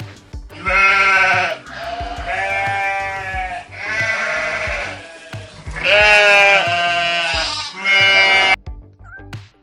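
Sheep bleating: about six loud, quavering bleats in a row, each about a second long, cutting off abruptly near the end. Background music plays underneath.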